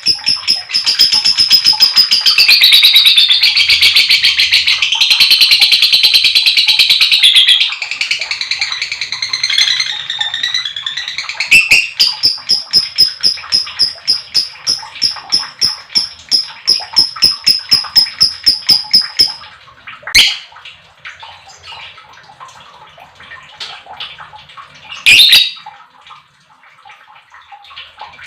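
Lovebird's long, rapid chattering song (ngekek): shrill notes repeated many times a second for about twenty seconds, then it breaks into softer chatter with two sharp, loud calls near the end.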